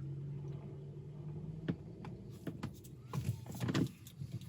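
Handling noise as a decal is pressed onto a gear knob: light rubbing and small taps, over a steady low hum that fades out about one and a half seconds in.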